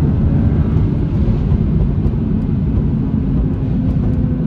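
Stage-one-remapped BMW 435i's turbocharged straight-six heard from inside the cabin while driving at speed, a steady low rumble mixed with road noise.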